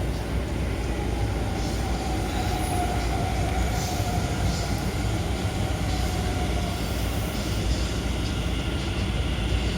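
Taoyuan Airport MRT train heard from inside the carriage as it runs: a steady low rumble, with a faint whine that slides slightly lower during the first half.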